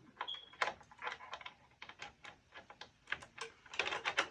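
A metal padlock being handled and fitted to the door latch: small irregular metal clicks and rattles, which come thicker and faster near the end.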